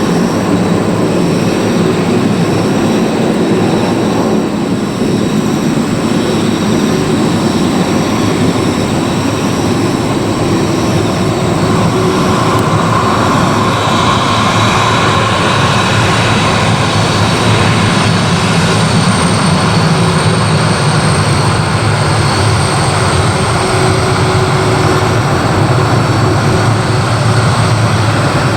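Airliner engines running loud and steady, with a high whine that comes in about halfway through.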